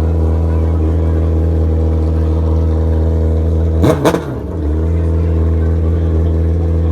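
Two racing motorcycles pass close by at speed, one right behind the other, about four seconds in, their engine notes dropping as they go past. Under them a steady low engine drone runs throughout.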